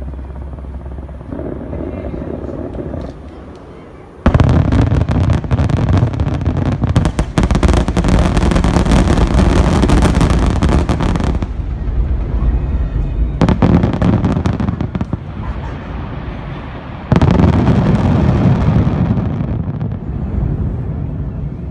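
Fireworks display: a dense barrage of shell bursts and crackle starts suddenly about four seconds in and runs for several seconds. Two more barrages follow, the last fading out near the end.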